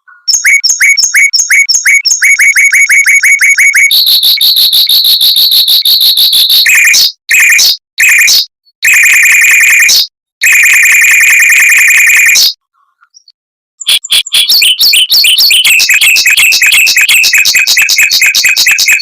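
Mockingbird singing loud, fast rolls: dense trills of rapidly repeated high notes, switching to a new note type every few seconds. The song breaks off abruptly several times, with a longer pause about two-thirds of the way through, before a fast trill resumes.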